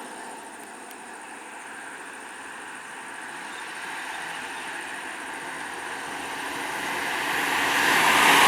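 A motor vehicle's engine and road noise growing steadily louder, as if it is approaching.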